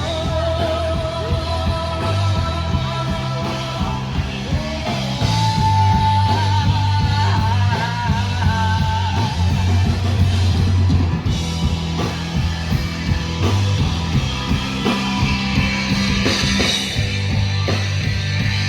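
Live rock band playing: electric guitar holding long, slightly bending lead notes over a steady bass line and drums.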